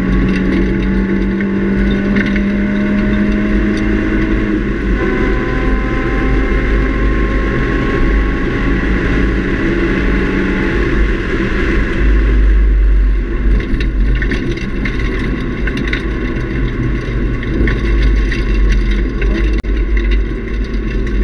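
Nissan 350Z's 3.5-litre V6 with a Nismo cat-back exhaust, heard from inside the cabin, pulling hard on track: the engine note rises steadily, dips at an upshift about four and a half seconds in, then climbs again. About twelve seconds in the engine tone fades and a loud low rumble of road and wind noise takes over.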